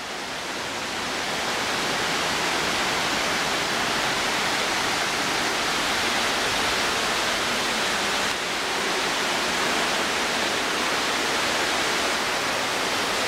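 Waterfall rushing: a steady, even wash of falling water, rising a little in the first couple of seconds and then holding.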